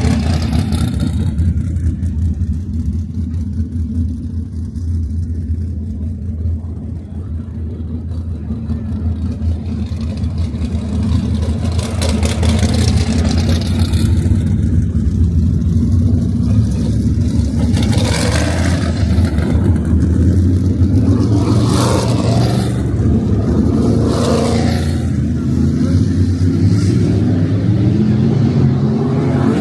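A field of 410 sprint cars running laps, their V8 engines droning steadily. The sound grows louder about twelve seconds in, and several cars sweep past one after another in the second half.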